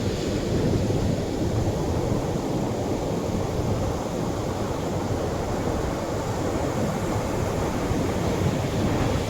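Atlantic Ocean surf breaking on the shore. It is a continuous, steady wash of low-pitched noise, with no single distinct crash standing out.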